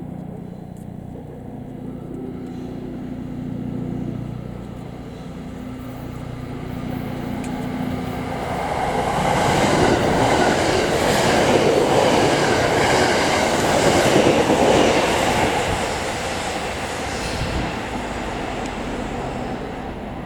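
Shirasagi limited express electric train passing by: its noise builds from about eight seconds in, is loudest for several seconds with a rapid clatter of wheels over the rails, then fades.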